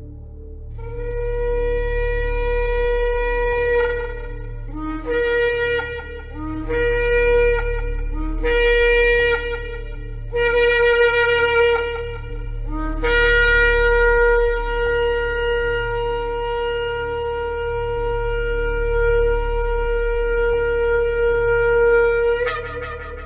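Shofar (ram's horn) blown: a blast of about three seconds, then four shorter blasts that each start on a low note and break upward, then a very long blast of about ten seconds that jumps up in pitch at its end. A steady low hum sits underneath.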